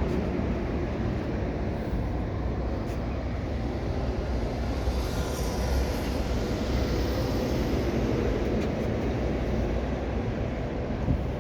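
The 1967 Oldsmobile 442's 400 cubic-inch V8 running steadily with a low rumble. A rushing hiss swells and fades about five seconds in.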